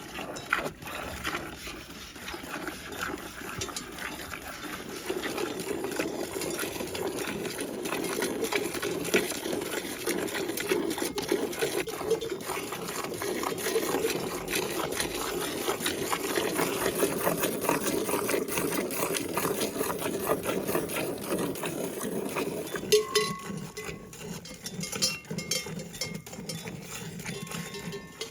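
Bells on grazing livestock clanking irregularly and continuously, many small strikes overlapping.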